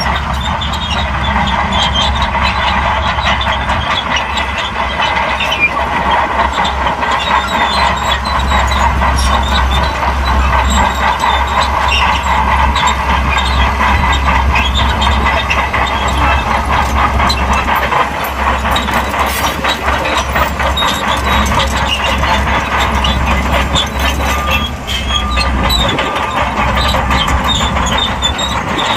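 Shantui crawler bulldozer working: its diesel engine runs steadily while the steel tracks clatter continuously with dense rapid clanks.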